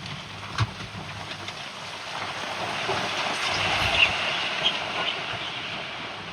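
Bulldozer at work on rock: a rushing, clattering noise with scattered clicks that swells to its loudest about four seconds in, then eases off.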